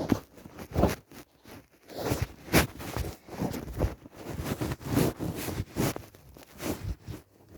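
A dog snoring: rough, raspy breaths in quick, irregular succession.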